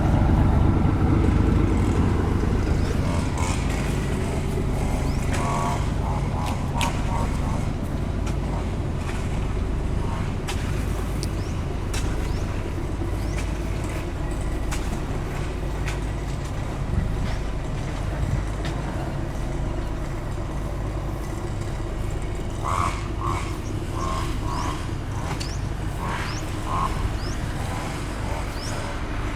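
Bus engine running with a steady low rumble, with voices heard faintly now and then.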